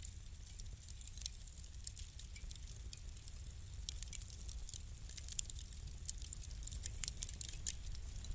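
Wood fire crackling: many small irregular snaps and pops, a few sharper ones in the second half, over a steady low rumble of the burning.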